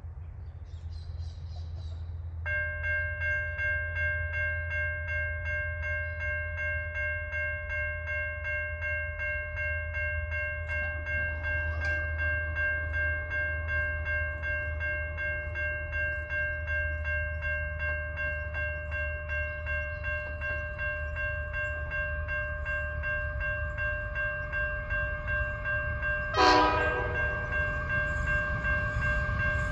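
Level-crossing Safetran Type 3 electronic bells start ringing about two and a half seconds in, a rapid steady ding, signalling the crossing's activation for an approaching train. About 26 seconds in there is a short, loud falling blast, and the level climbs as the train nears.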